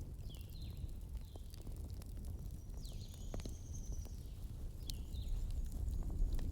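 Wood fire burning: a steady low roar with scattered sharp crackles and pops, and a few short high chirping whistles, one longer whistle near the middle.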